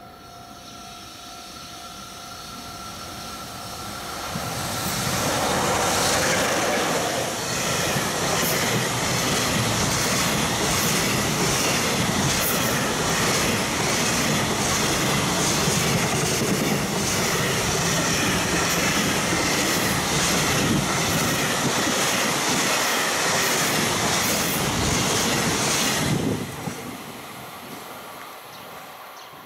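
A level crossing warning signal sounds as a steady two-tone ring for the first few seconds. Then a JR Freight EF66 electric locomotive and its string of container wagons pass close by at speed. For about twenty seconds there is loud running noise with a rhythmic clatter of wheels over the rail joints, and it drops away suddenly near the end as the last wagon goes by.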